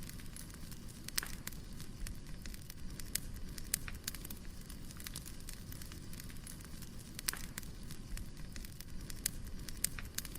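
Firewood burning: a steady low rumble with irregular sharp crackles and pops, a few of them louder, about a second in and again around seven seconds in.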